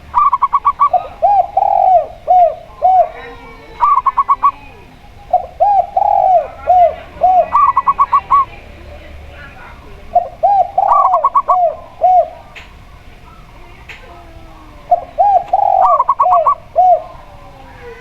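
Zebra dove and spotted dove cooing, in about five phrases a few seconds apart. Each phrase is a quick run of short, higher notes followed by a string of lower, rounder coos.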